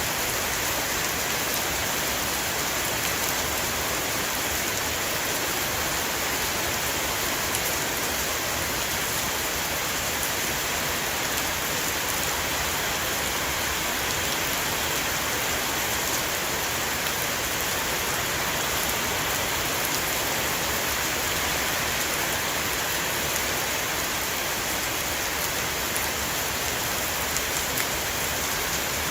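Steady heavy rain shower falling on a roof, a dense even hiss of countless drops with fine patter throughout.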